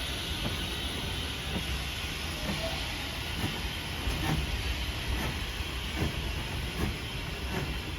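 Steam locomotive hissing steam while moving slowly, with short knocks recurring about once a second.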